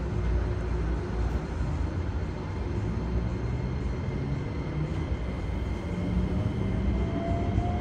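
Running sound heard inside a Keikyu 1000 series commuter car: a steady rumble of wheels on rail, with the whine of the Toyo IGBT-VVVF traction inverter and motors. From about six seconds in, that whine rises in pitch as the train accelerates.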